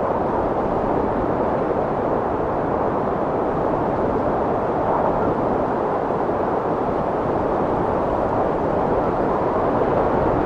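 Strong wind blowing: a steady rushing noise centred low-to-mid, swelling slightly around the middle and again near the end.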